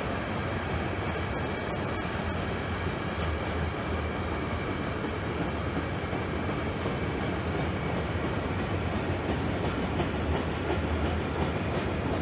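Freight train of high-sided open wagons rolling past on the rails, a steady noise of wheels on track that keeps an even level as the wagons go by.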